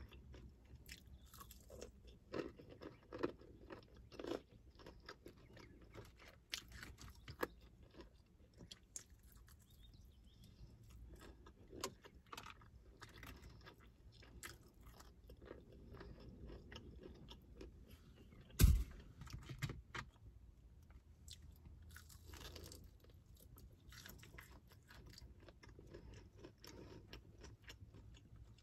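Close-up chewing and crunching of crispy fried KFC chicken wings, with irregular crackly bites and mouth sounds, and one loud thump about two-thirds of the way through.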